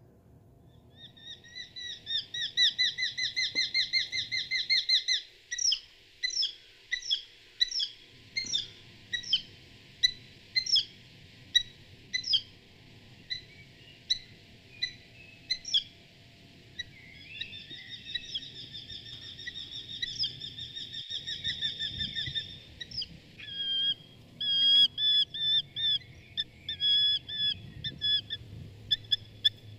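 A bird singing: a fast trill, then a run of single whistled notes about one or two a second, another long trill, and quick repeated chirps near the end.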